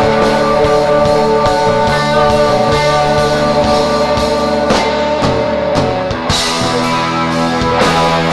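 Rock band playing live, an instrumental passage with sustained electric guitar notes over bass and drum kit.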